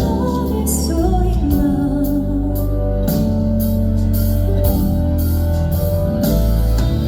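A woman singing a slow Korean ballad live, over instrumental backing with a steady bass and guitar.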